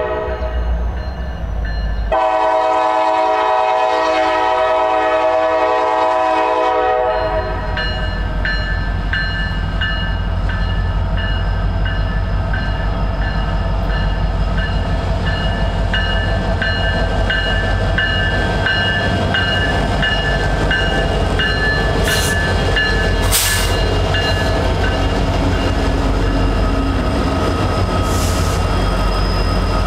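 Diesel freight locomotive's air horn: a short blast ending just after the start, then a long blast of about five seconds. The train then passes with a steady low rumble and a regular clicking of wheels over rail joints.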